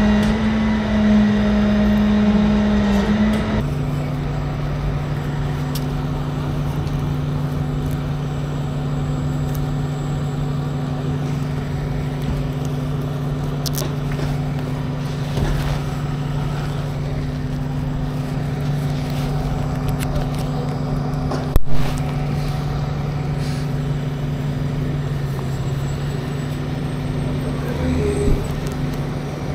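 Kawasaki Ninja 400 parallel-twin engine running at a steady, even note that drops a step about three and a half seconds in and then holds. There is one sharp knock a little past twenty seconds.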